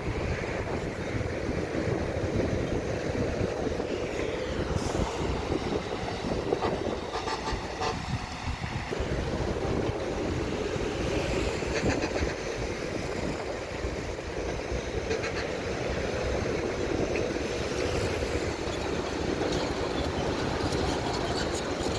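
Heavy diesel earth-moving machinery running steadily, a low engine rumble with a few brief clattering spells.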